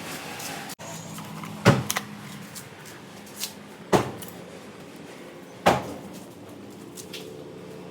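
A steady low hum broken by three loud, sharp knocks or clatters about two seconds apart, with a fainter one between the first two.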